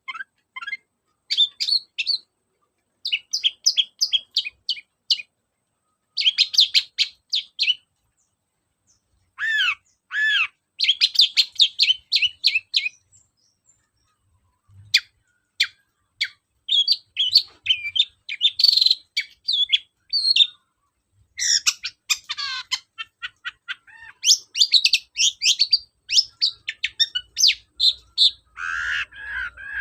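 Long-tailed shrike (cendet) singing: bursts of rapid, chattering notes, each phrase a second or two long, with short pauses between them. A lower, louder phrase comes near the end.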